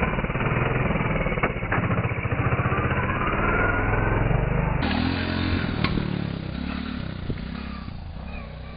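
Honda Big Red three-wheeler's four-stroke single-cylinder engine running with steady rapid firing; about five seconds in the sound changes and slowly grows quieter.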